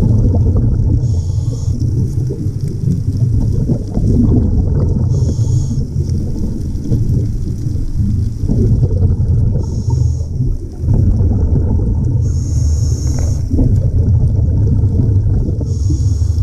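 Underwater recording: a steady low rumble of water, with a short high hiss five times, every three to four seconds.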